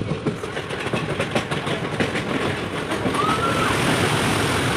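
Train running on the rails, a rumbling rattle with irregular clacks that turns into a steadier, louder rush about three seconds in. A short squeal sounds just after that.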